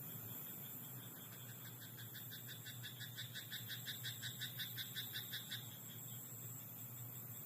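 Frog in a rice paddy croaking a fast run of evenly spaced pulsed notes, several a second, that swells and stops after about four seconds. A steady high insect hum runs underneath.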